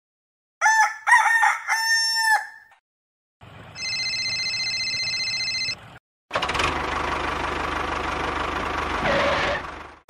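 A rooster crows once, cock-a-doodle-doo. About a second later comes a steady mechanical whine lasting about two seconds, then an engine running with a low rumble for about three seconds, fading out near the end.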